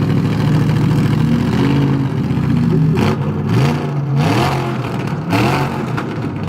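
Factory 5 build car's engine running just after its first start, first steady and then blipped up and down about five times in quick succession.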